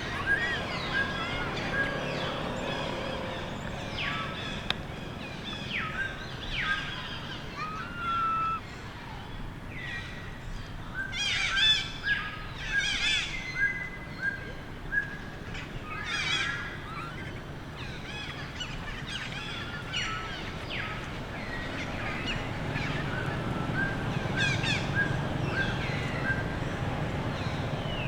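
Baby monkey crying: many short, high chirps and squeals that slide in pitch, coming in quick runs, over a low steady background rumble.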